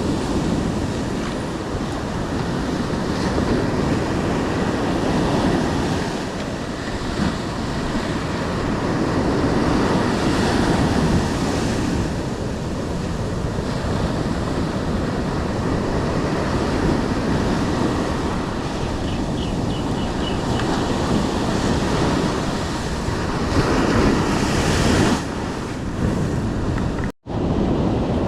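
Ocean surf breaking on a beach, a steady rushing that swells and eases with each wave, with wind buffeting the microphone. The sound cuts out briefly near the end.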